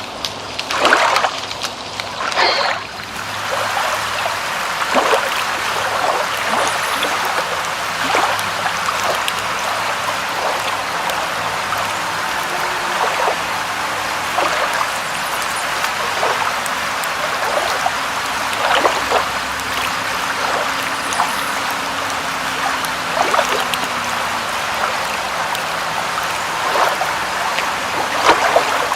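Rain falling steadily as an even hiss of water, with scattered louder drops and splashes every second or two.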